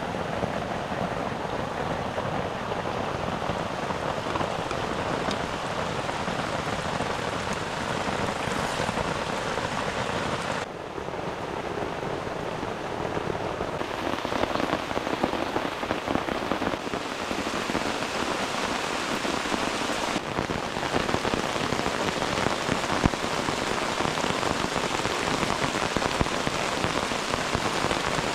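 Heavy rain falling steadily on a tent flysheet, its level shifting abruptly a few times.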